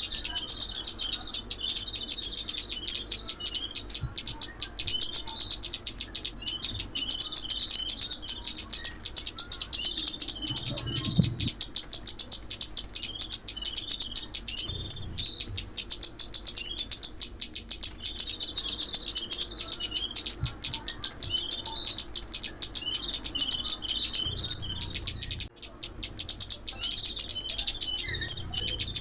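Crimson sunbird calling and singing: rapid, high-pitched twittering chirps in phrases with short breaks, over a thin steady high whistle.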